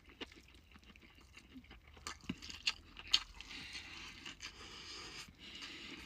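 A person chewing and biting into KFC fried chicken at close range: irregular crunches and wet mouth clicks, a few louder ones about two to three seconds in.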